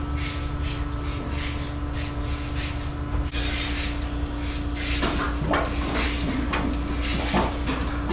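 Dairy milking equipment running: a steady vacuum-pump hum with rhythmic hissing clicks from the pulsators, about two to three a second.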